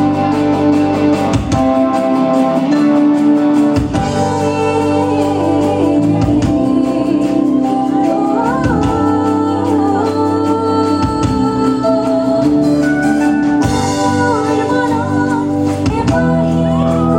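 A song performed live: singing over a band, with sustained chords and a regular beat about once a second.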